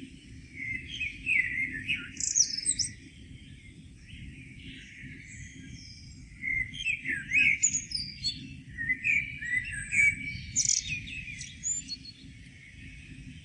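Songbirds singing in the morning: bursts of rapid chirps and warbled phrases, in two busy stretches from about half a second to three seconds in and from about six to twelve seconds in. A steady low rumble runs underneath.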